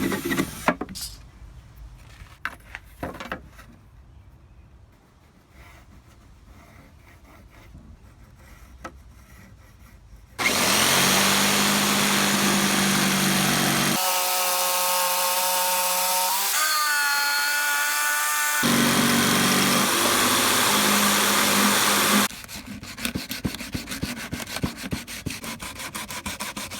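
Sanding an old pine box: faint scraping and a few clicks, then an electric sander switches on and runs steadily with a motor whine for about twelve seconds before cutting off suddenly, followed by quicker, quieter rubbing against the wood.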